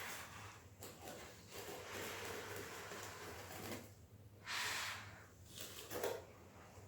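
A hand scraper spreading tile adhesive in several rough scraping strokes. The loudest stroke comes about two-thirds of the way through.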